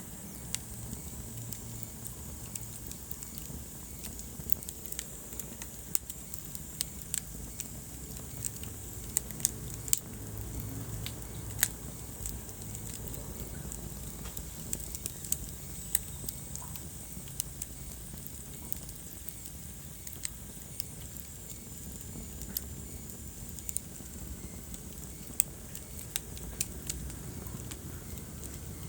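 Wood fire burning in a fireplace: irregular crackles and sharp pops over the low, steady sound of the flames, with a faint high whistle now and then.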